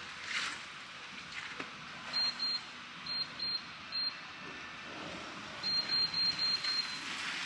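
Fuel pump keypad beeping as its buttons are pressed: about a dozen short, high beeps in quick groups, each press one beep, over a steady hiss.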